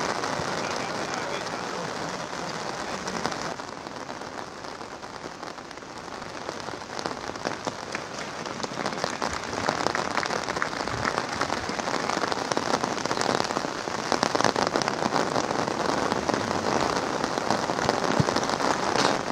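Steady rain falling, a dense patter of drops, somewhat heavier in the second half.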